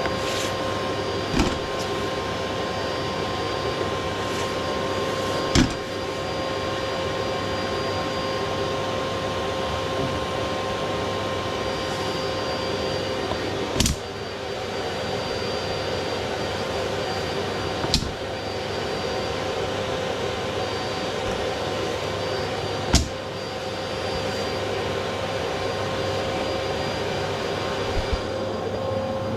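A chimney sweep's vacuum running with a steady whine, broken by a few sharp knocks, which are likely sweep rods knocking in the chimney.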